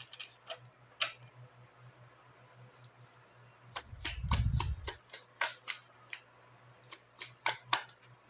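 Tarot cards being handled and drawn from the deck: a run of short, sharp card snaps and taps, more frequent in the second half, with a low rumble of handling about four seconds in.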